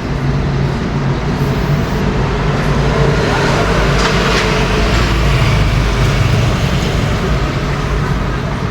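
A motor vehicle running steadily: a continuous low engine hum under road noise.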